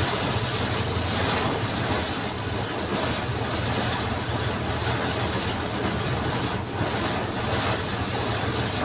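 Heavy rain and strong wind in a storm: a steady, loud rushing noise, with a steady low hum underneath.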